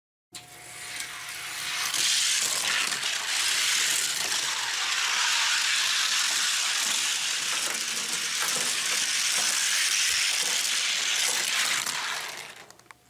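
Two 1:64 die-cast cars rolling down a plastic gravity race track: a steady rolling rattle with many small clicks, building up over the first two seconds and fading away near the end.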